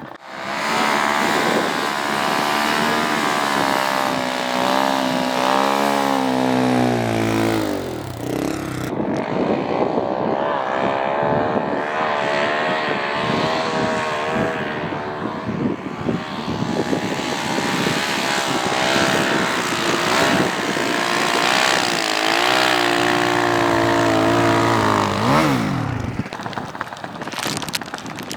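450cc single-cylinder four-stroke snowbike engine running hard under throttle through snow, its pitch wavering with the load. The revs fall away about eight seconds in and again near the end as the throttle is eased.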